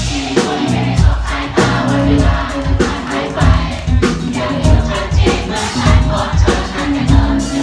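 Live pop band music with a steady drum beat and bass, and voices singing over it.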